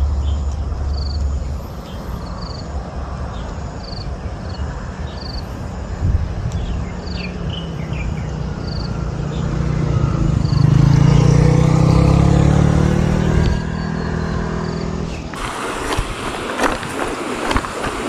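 Outdoor ambience with a motor vehicle passing: an engine hum swells from about ten seconds in and fades a few seconds later, over a faint chirp repeating about once a second. About fifteen seconds in the sound changes abruptly to a rushing hiss with sharp clicks.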